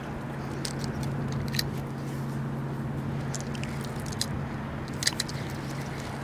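Scattered soft clicks and rubbing from handling a spinning rod and reel, over a steady low hum.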